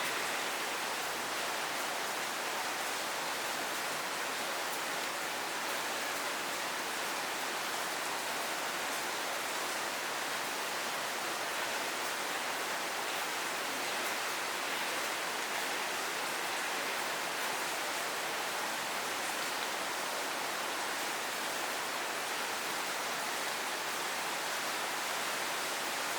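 Steady rainfall: a dense, even hiss of rain with no single drops or other sounds standing out.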